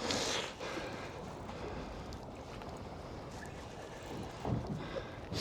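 Wind noise on the microphone and water moving around a small drifting boat, a steady rush with brief hissing gusts at the start and near the end.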